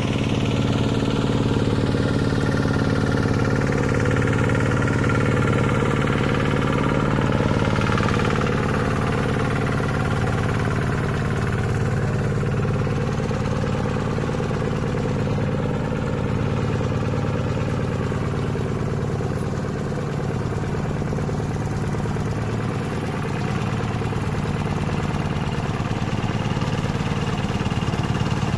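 Two-wheel hand tractor's engine running steadily, its even throb a little softer after about eight seconds.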